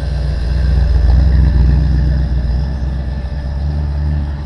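A car engine running close by, loudest about a second in and then easing off.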